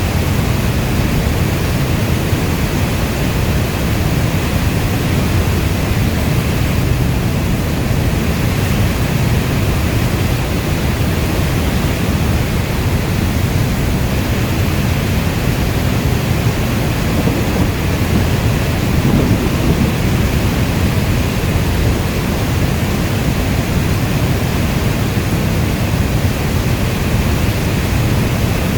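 Steady heavy rainfall, a dense even rush of noise weighted toward a deep low rumble, with a slight swell about two-thirds of the way through.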